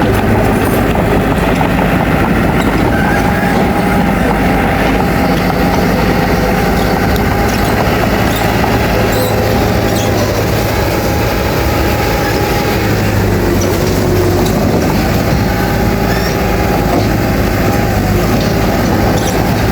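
Crawler bulldozer's diesel engine running steadily under load.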